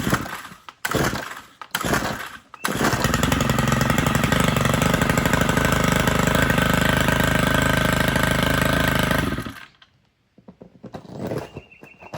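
Stihl FS110 two-stroke string trimmer pulled a few times on its starter cord, catching about two and a half seconds in and running steadily for about seven seconds before it is shut off. It runs like a champ.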